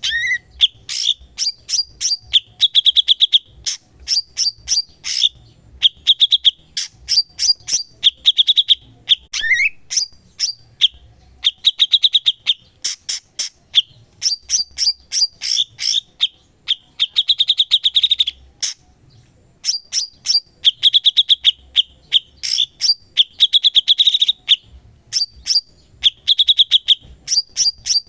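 Cucak cungkok singing in full, constant song: rapid phrases of sharp chattering notes and short buzzy trills, repeated one after another with brief pauses.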